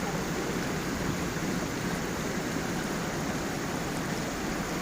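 Stream water tumbling over stones and a small waterfall, a steady, even rush.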